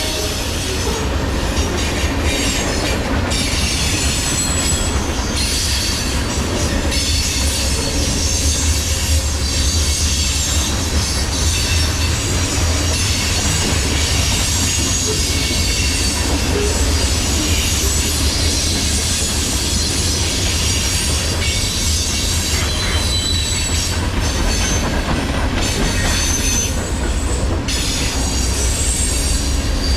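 Norfolk Southern freight train rolling past at steady volume, a continuous rumble of wheels on rail with high-pitched wheel squeal coming and going.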